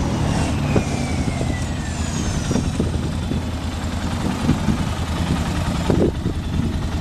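The 2008 Arctic Cat 650 H1 TRV's single-cylinder four-stroke engine idling steadily.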